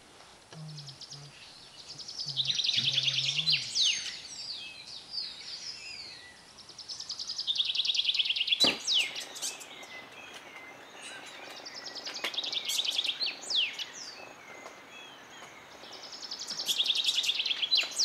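Wild songbird singing: bursts of fast, high, buzzy trills mixed with quick rising and falling whistled notes, repeated about every four to five seconds. A sharp click sounds about halfway through.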